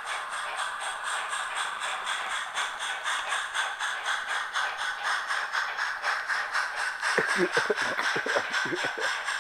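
Sound-fitted Bachmann pannier tank model locomotive, its onboard speaker playing steam chuffs in a steady, quick beat as it runs on the layout. A cluster of short low knocks comes near the end.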